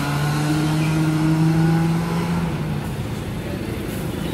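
Mitsubishi Outlander Sport engine pulling away under acceleration, its note rising slowly and then fading out about two and a half seconds in.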